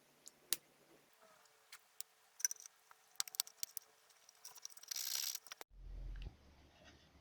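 Small hand tools and wooden parts handled at a workbench: scattered light clicks and taps, with a short scraping hiss about five seconds in, then a brief low hum about six seconds in.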